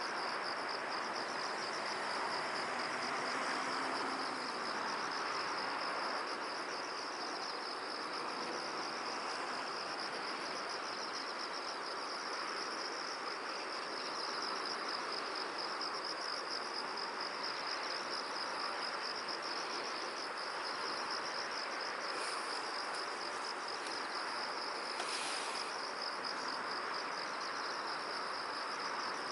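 Insects trilling continuously in a fast, high-pitched pulse over a steady rush of wind, with two brief higher chirps about two-thirds of the way through.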